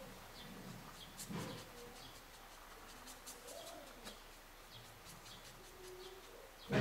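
Faint birdsong in the background: small birds chirping repeatedly, with a few low dove coos.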